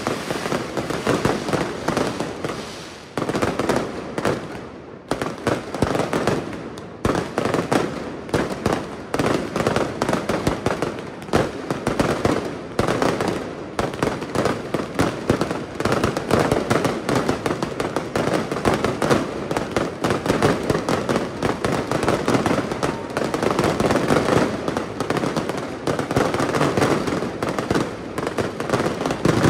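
Aerial fireworks bursting in a dense, continuous barrage of bangs and crackling. The barrage thins briefly a few seconds in, then builds back to a steady rapid volley.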